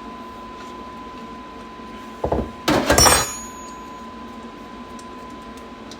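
A short clatter of small metal parts and tools being handled, about two seconds in, ending in a ringing metallic clink. A faint steady tone sits under it.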